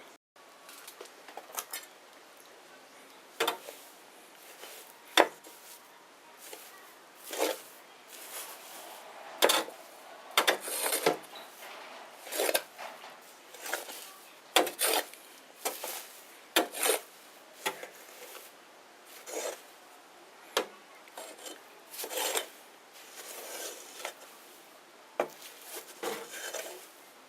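Small wood bonfire crackling: irregular sharp pops and snaps about every second or two over a faint hiss.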